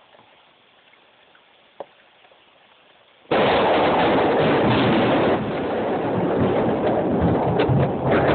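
Thunder: after a quiet stretch, a sudden very loud clap about three seconds in that carries on as a loud, crackling rumble.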